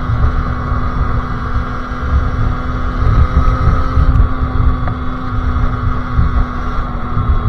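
Sherco SM-R 50cc two-stroke engine with a KRM exhaust running at steady, constant revs under way, with uneven wind rumble on the microphone.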